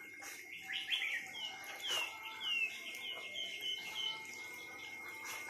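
A songbird calling in a quick run of about a dozen short, falling chirps lasting about three seconds. Behind it is a faint, steady high-pitched tone.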